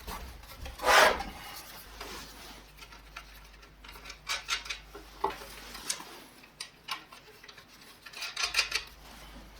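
Metal parts and tools being handled: light clinks, taps and short scrapes, with the loudest knock about a second in and a quick run of clicks near the end. The angle grinder itself is not running.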